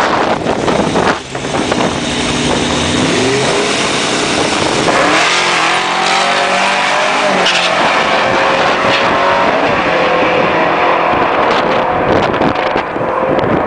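Drag-racing cars launching and accelerating hard down the strip, engine pitch climbing in steps through the gear changes, then settling into a steady high engine note.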